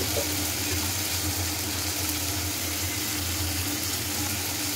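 Spice paste frying gently in oil in a steel kadai: a soft, steady sizzle over a constant low hum.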